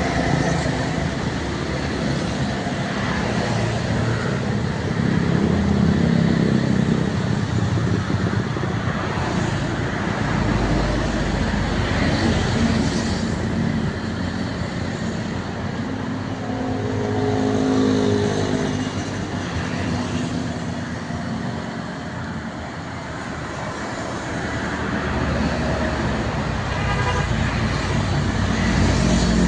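Road traffic passing: engines of cars and trucks and tyre noise, swelling and fading in loudness as vehicles go by.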